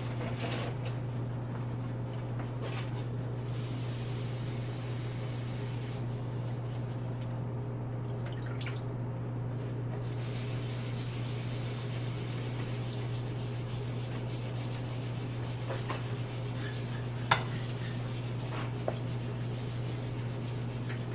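Water being poured into a pot of rice in tomato sauce, a hiss of liquid that swells and fades, over a steady low hum. Two short sharp clicks come near the end.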